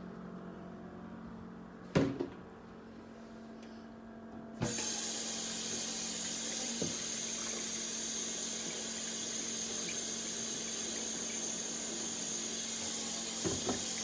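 A single knock, then a water tap turned on about four and a half seconds in and running steadily, drawing drinking water for the dogs.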